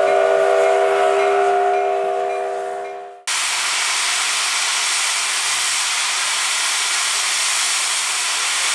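Steam locomotive's whistle blowing a steady chord of several notes that fades away over about three seconds. It gives way abruptly to a steady hiss of escaping steam.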